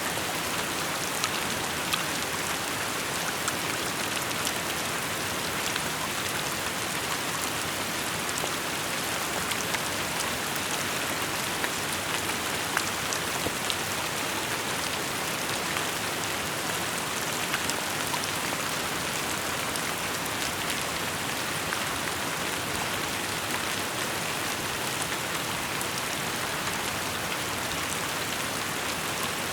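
Steady rainfall, an even hiss of rain on surfaces with scattered individual drop hits ticking through it.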